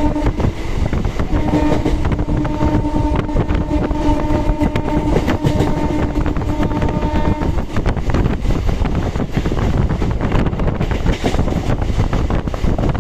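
Electric local train's horn sounding, a brief tail right at the start and then one long steady blast of about six seconds that stops about seven and a half seconds in, over the constant rumble and rail clatter of the moving train and wind on the microphone.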